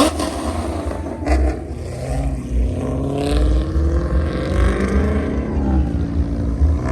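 Car engine accelerating, its pitch climbing steadily for about three seconds, then climbing again near the end, over a heavy low rumble.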